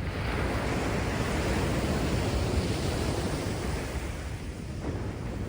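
Rough sea after a typhoon: a large wave breaking and rushing up the beach, swelling soon after the start and dying away near the end. Under it runs a steady low rumble of wind on the microphone.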